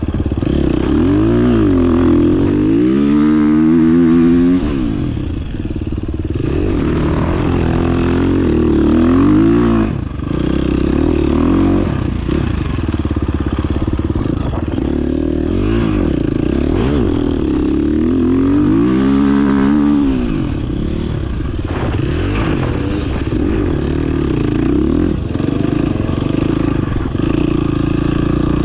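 Dirt bike engine running under constantly changing throttle, its pitch rising and falling again and again as the rider opens and closes the throttle.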